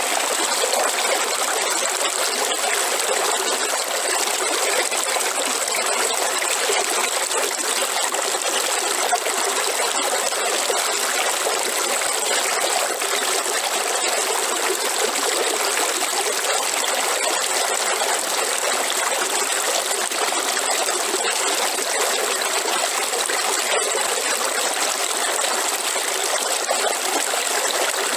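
River water running steadily, an even rushing noise with no breaks.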